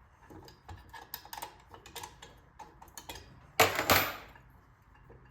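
Small metal clicks and clinks of hand tools and parts being handled during the teardown of a Clinton 410 small engine, then a louder double metallic clatter with a brief ring a little over three and a half seconds in, as of a tool or part set down.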